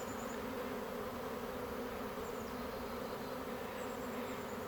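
Honey bee swarm buzzing: a steady, unbroken hum of many bees.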